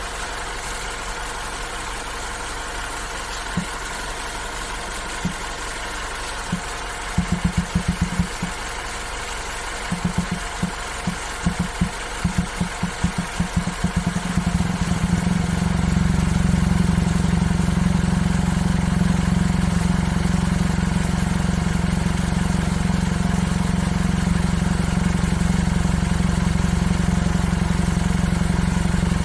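Opel Mokka 1.4 turbo running, with irregular low knocks that come in quick clusters through the first half. About halfway through, these give way to a loud, steady low drone.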